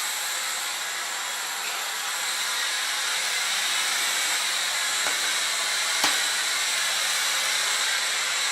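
LG CordZero A9 cordless stick vacuum running steadily with an even airy whine, with two small knocks about a second apart past the middle.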